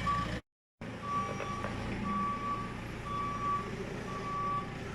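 Telehandler's reversing alarm beeping about once a second, each beep about half a second long, over a diesel engine running. A brief cut to silence about half a second in.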